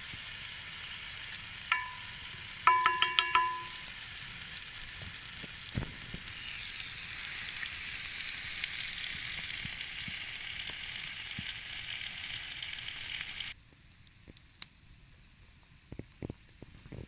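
Greek-style chicken and potatoes sizzling steadily in a pan over a campfire, with a quick run of metallic clinks about two to three seconds in. The sizzling cuts off abruptly near the end, leaving only a few faint clicks.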